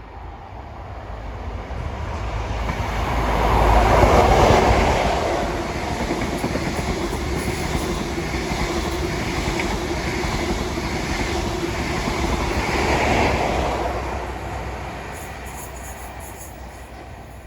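Train of HST stock passing through with a Class 43 HST diesel power car at each end. The leading power car's engine rises to a loud peak about four seconds in, the coaches roll by with a steady run and wheel clatter, and the rear power car brings a second peak near the end before the train fades away.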